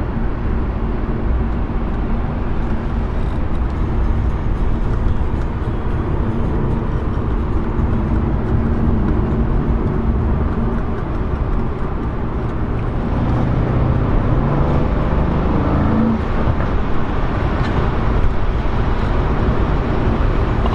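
Mercedes-AMG C63's 4.0-litre biturbo V8 running under way with a steady low drone. About two-thirds of the way in, the engine note rises for about three seconds, then falls back.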